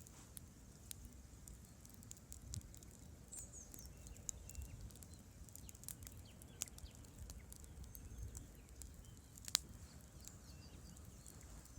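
Campfire burning with many small irregular crackles and pops and one sharp, louder snap about three-quarters of the way through, over a low steady rumble of flowing river water. A few faint bird chirps come in early on.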